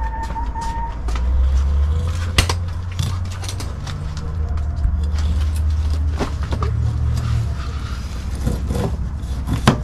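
A motor vehicle's engine running as a low rumble that swells about a second in and fades near the end, with a few sharp clicks and scrapes of a knife on a cooler lid as a fish is filleted.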